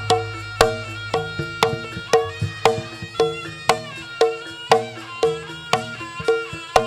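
Traditional Javanese music accompanying a barongan performance: struck, ringing pitched percussion on a steady beat of about two strokes a second, over a low sustained tone.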